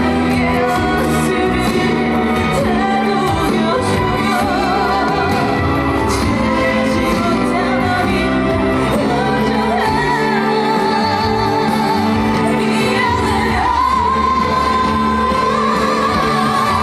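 Female trot singer singing live over musical accompaniment. Near the end she holds a long note with vibrato.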